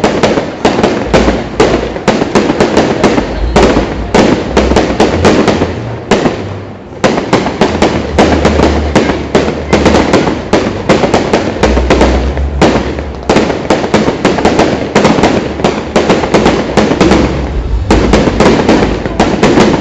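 Fireworks display: a dense, continuous barrage of bangs and crackling over a low rumble, thinning briefly about six seconds in before picking up again.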